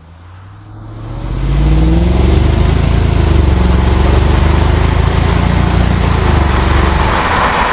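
A 2001 Jaguar XK8's V8 on an aftermarket exhaust accelerates moderately from a standstill. The note climbs in pitch from about a second in and dips and rises again as it changes gear. A rising hiss of wind and road noise builds near the end.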